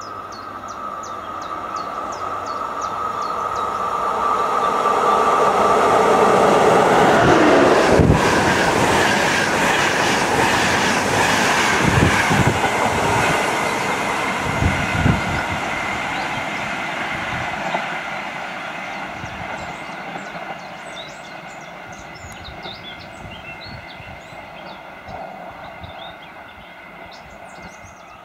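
Škoda class 362 electric locomotive and its passenger train approaching and running past at speed, the sound building to a peak about eight seconds in with a falling pitch, then a few heavy wheel thumps and a long fade as the train recedes. Birds chirp faintly as it dies away.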